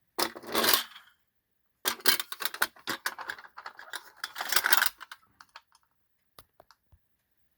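Vintage Tonka pressed-steel toy tow truck being rolled across a hard surface, its wheels and metal parts rattling and clicking. A short run comes first, then a longer clattering run of a few seconds that trails off into a few scattered clicks.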